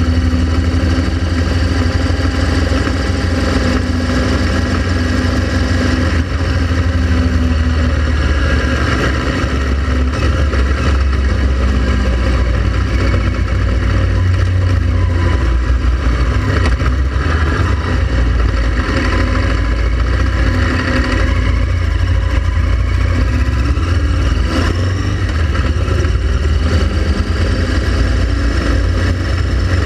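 Motorcycle engine running steadily under way, a continuous loud rumble with no big revs or pauses.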